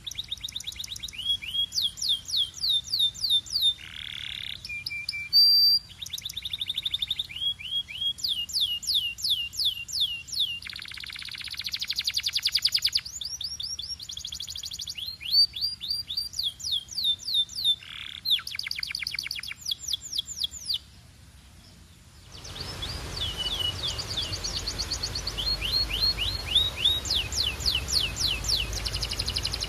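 Domestic canary singing: runs of fast, evenly repeated notes, each run at its own pitch, some sliding down and some as buzzy rolls. About 21 seconds in the song breaks off briefly, then goes on with a steady hiss behind it.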